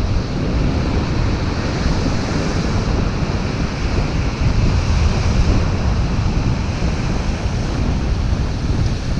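Surf breaking and washing up a sandy beach, a steady rush of waves, with strong wind buffeting the microphone as a heavy low rumble.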